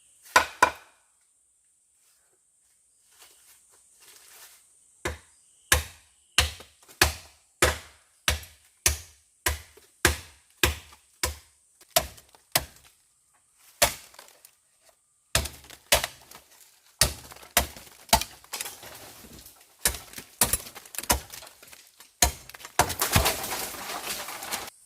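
Bamboo being chopped with a blade: a steady run of sharp wooden strikes, about one and a half a second, that come faster and rougher in the second half and end in about two seconds of dense crackling.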